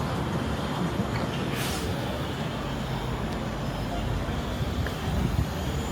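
City street traffic noise: a steady rumble of passing vehicles, with a brief hiss about a second and a half in.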